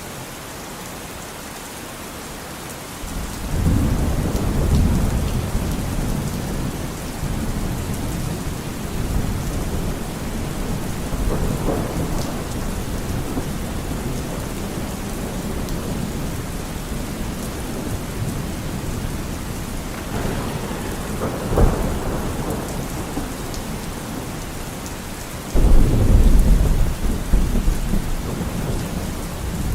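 Steady rain with thunder. A low rumble rolls in about three seconds in, a sharper crack comes about two-thirds of the way through, and a louder rumble sets in near the end.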